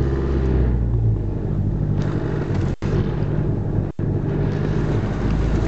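Off-road 4x4's engine running steadily at low speed, heard from inside the cabin as the vehicle drives along the track. The sound cuts out briefly twice near the middle.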